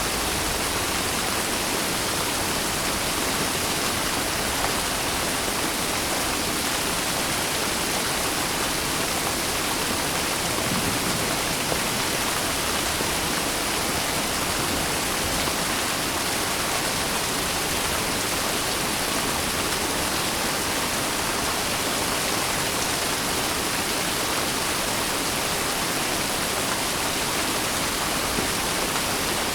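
Steady heavy rain, a dense even hiss that keeps the same level throughout.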